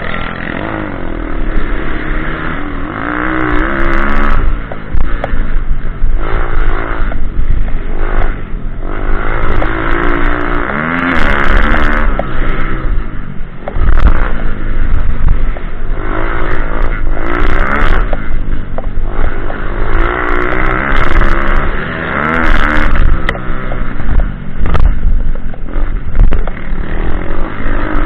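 Pitbike's small single-cylinder engine revving up and falling back over and over as it is ridden round an off-road track, with scattered clattering.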